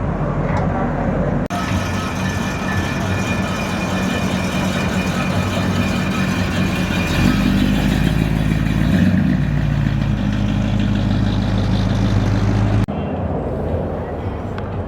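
Car engine running, a steady low rumble, with the sound changing abruptly about one and a half seconds in and again near the end.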